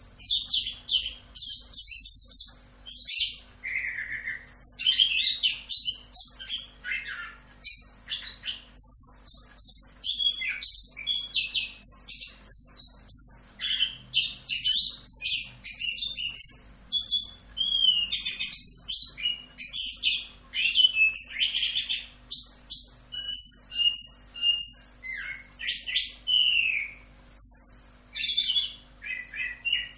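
Chestnut-capped thrush (anis kembang) singing a continuous rolling song: fast, varied whistled phrases, slurs and chatters run together with hardly a pause. Under it is a faint steady hum.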